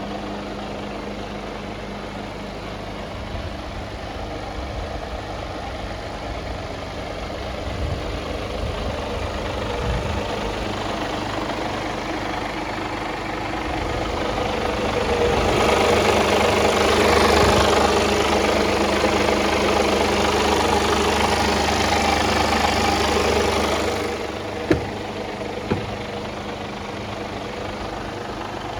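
Mercedes-Benz Actros 1948 truck's six-cylinder diesel engine idling steadily. About halfway through, the sound grows louder and fuller for roughly eight seconds, then settles back to idle. Two sharp clicks follow shortly after.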